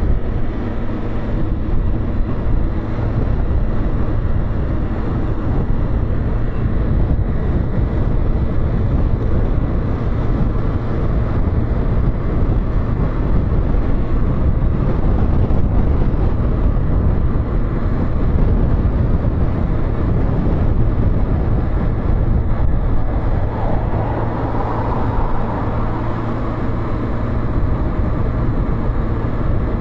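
Motorcycle being ridden, its engine running steadily under a heavy low rumble of wind and road noise.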